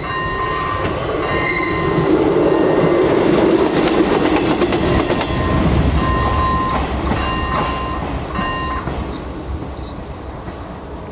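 ČD class 814 Regionova diesel railcar passing the level crossing, loudest a couple of seconds in and fading after about six seconds. The crossing's electronic warning bell rings in short repeated tones through it and stops near the end, as the warning lights go out.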